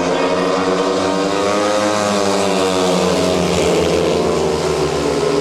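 Speedway motorcycles' 500 cc single-cylinder methanol engines racing, their pitch falling and rising as the riders ease off and accelerate through a bend.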